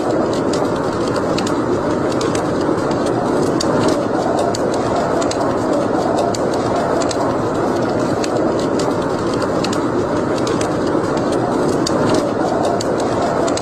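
Wood fire burning in a fireplace: a steady rushing noise with frequent small crackles and pops scattered irregularly throughout.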